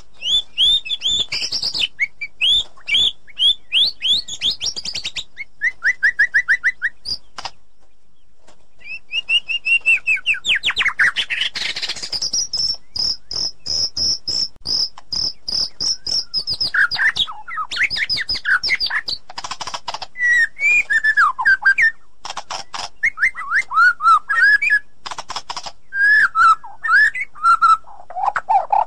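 White-rumped shama (murai batu) singing a rapid, varied song of quick repeated whistled notes and sweeping phrases, with a long high trill near the middle.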